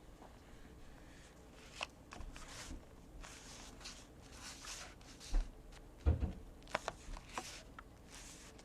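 Paper being handled on a tabletop: short rustles and slides of card and paper, with a few light taps and knocks in the second half.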